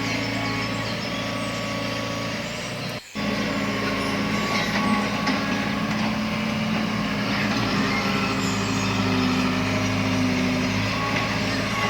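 Heavy vehicle engine running steadily with a low hum, cutting out for a moment about three seconds in and then running on.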